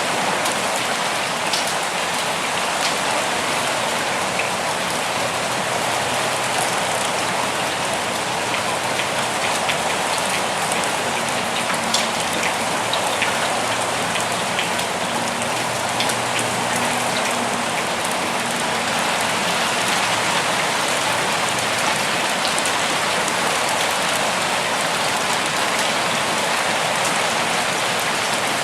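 Steady rain falling on leaves and the ground, a continuous hiss dotted with many individual drop ticks.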